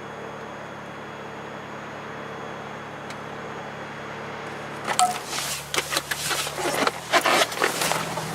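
Car engine idling steadily. About five seconds in, a run of loud, irregular scraping and knocking noises begins and continues to the end.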